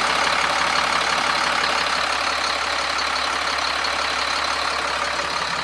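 The 7.2-liter diesel engine of a 2007 Sterling L7500 garbage truck idling steadily.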